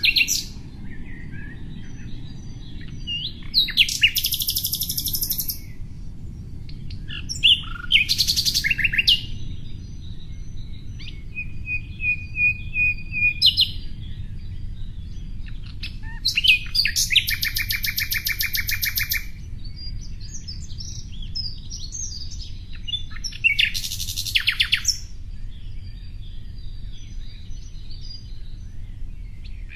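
Songbirds chirping and singing: about four loud song bursts of a second or two, each a fast run of high notes, with a held high note and scattered chirps in between, over a steady low background noise.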